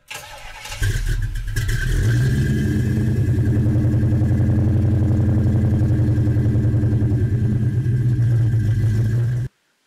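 A car engine starts about a second in and then idles steadily with an even pulsing beat, cutting off suddenly near the end.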